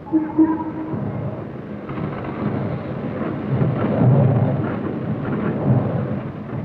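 Freight train getting under way: a deep, steady rumble that swells around the middle, after a short steady tone right at the start.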